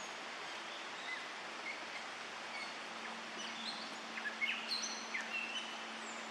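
Several songbirds singing at sunrise, in short chirps and whistles that grow busier in the second half, over a steady background hiss.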